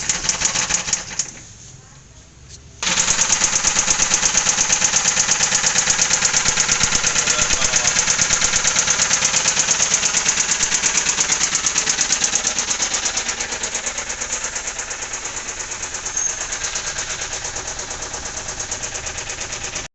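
Mahindra TUV300's three-cylinder diesel engine running with a loud, rapid, even knocking that starts about three seconds in and eases slightly later on: the sign of severe internal engine damage, which the mechanic feared might break something inside the engine.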